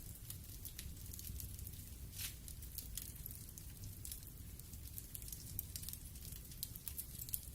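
Wood fire burning in a fireplace, crackling with frequent small, sharp pops over a steady low rumble of the flames. One louder pop comes near the end.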